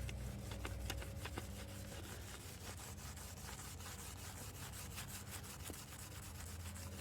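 Rag rubbing and scrubbing against a car wheel rim, repeated strokes wiping off brake dust with windscreen wash.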